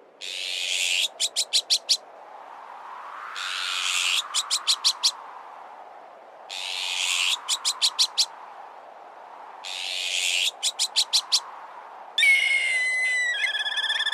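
Azure-winged magpie alarm calls repeating about every three seconds, each a harsh rasping call followed by a quick run of about five short notes, over wind that swells and fades. Near the end a black kite calls: a held high whistle that breaks into a quavering trill.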